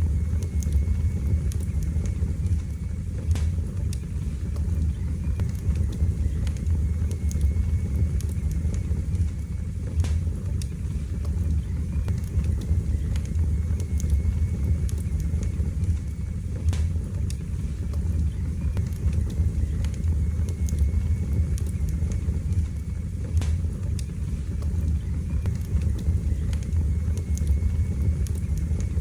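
Wood fire burning in a fireplace: a steady low rumble of the flames with scattered sharp crackles and pops at irregular moments.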